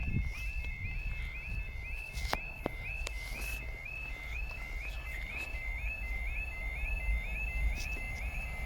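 Level crossing warning alarm sounding: a high two-note yelp repeated evenly about two to three times a second, the signal that a train is approaching and the barriers are down or coming down. A low rumble runs underneath.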